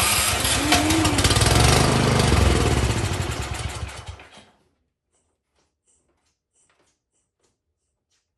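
Cub Cadet snowblower's small gas engine started on starting fluid. It runs loudly for about four seconds, then dies away. The owner takes this to mean no gas is reaching the engine.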